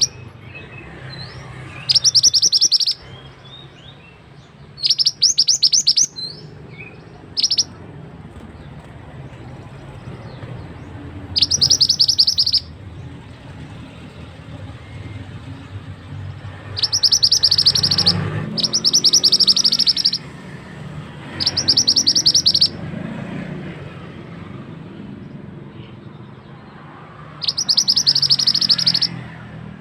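Mantenan bird singing: short bursts of fast, high, rapidly repeated notes, each about a second long, coming about eight times at irregular gaps, over the steady rush of flowing water.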